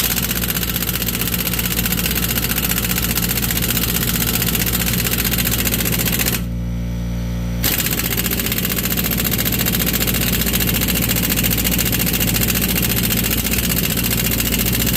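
Pneumatic impact wrench hammering continuously on rusted leaf-spring U-bolt nuts, pausing for about a second some six seconds in, with a steady low hum underneath.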